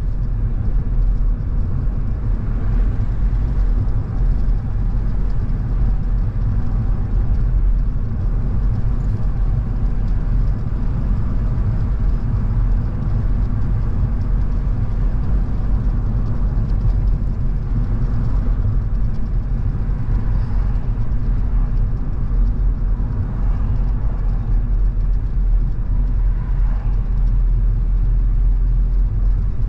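Car driving along a road: a steady, loud low rumble of engine and tyre noise, with faint swelling whooshes now and then.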